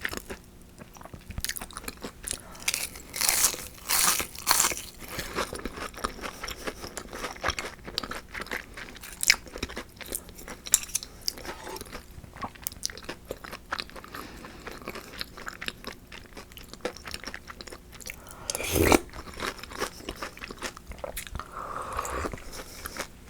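Close-miked bites and chewing of crispy shrimp tempura: crackly crunches that come in clusters, loudest a few seconds in, with one louder thump about three-quarters of the way through.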